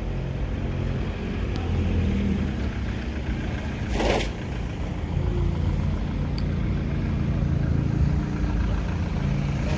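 Car engines running at low revs, a steady low rumble, with a short sharp hiss about four seconds in.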